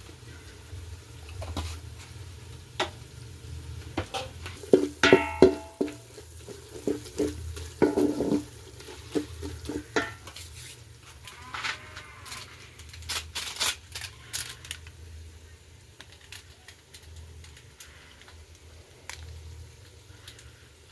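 Metal cooking pots and utensils clinking and knocking, with ringing metallic clangs about five and eight seconds in, over a low steady hum.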